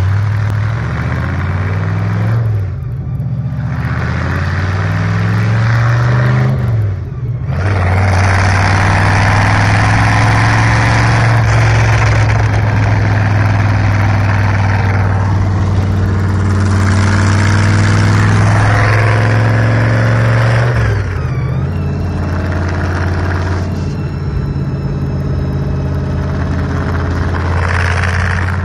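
Supercharged hot-rod engine, its blower standing up through the hood, running loud under way. It revs up and drops back three times, with a long steady cruising stretch in the middle.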